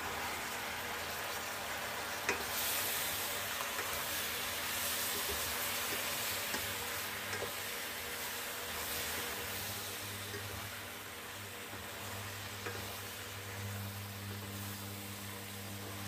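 Macaroni sizzling in an aluminium kadai as it is stirred into fried onion-and-spice masala with a wooden spatula, with a few light knocks of the spatula on the pan. A low steady hum comes in about ten seconds in.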